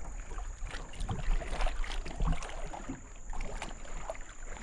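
A canoe on a river: water moving around the hull, with scattered small knocks and clicks.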